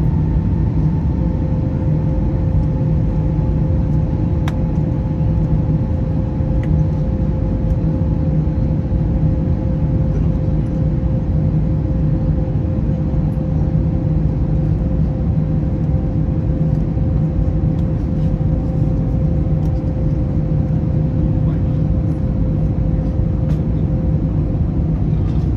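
Cabin noise inside an Airbus A321neo with CFM LEAP-1A engines: a steady low rumble of engines and airflow, with two steady whining tones, the higher one sinking slightly in pitch.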